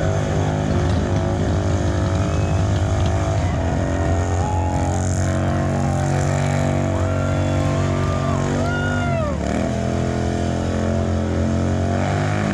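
Harley-Davidson Road Glide V-twin engine running steadily under way. Its note dips briefly and picks up again about nine seconds in.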